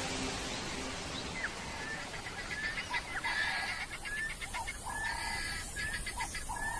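Birds calling: a run of short rising chirps mixed with rattling, chattering calls, repeating every second or so.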